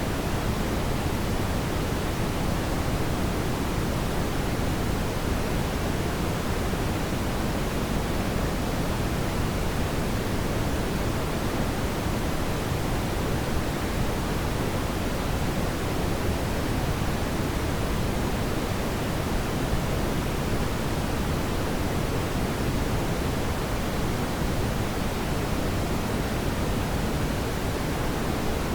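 Steady brown noise: a smooth, even hiss weighted toward the low end, with no changes or events.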